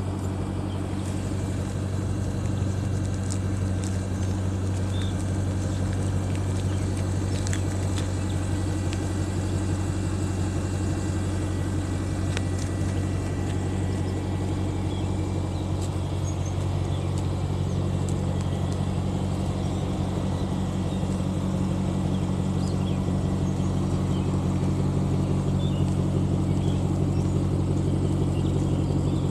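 Car engine idling steadily, a low even hum that grows slightly louder near the end.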